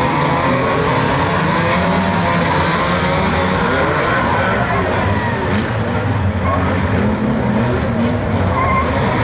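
Several banger racing cars' engines revving at once, many overlapping engine notes rising and falling over a steady loud mechanical din.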